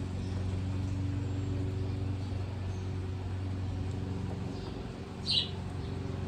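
Honda-clone pressure washer's small gasoline engine running steadily at an even pitch, with a short high hiss about five seconds in.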